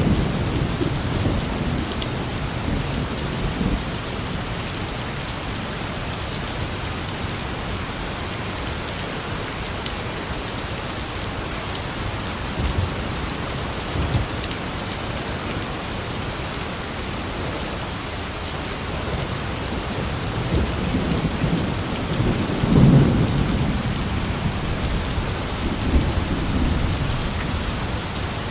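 Steady rain with low rolling rumbles of thunder, loudest about two-thirds of the way through.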